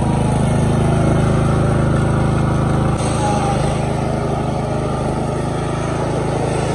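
Riding lawn mower's engine running steadily, with a brief dip about three seconds in.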